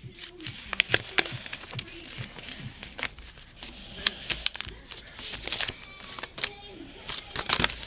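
Sheet of paper being folded and creased by hand: irregular crinkles and sharp little taps and snaps as the folds are pressed flat.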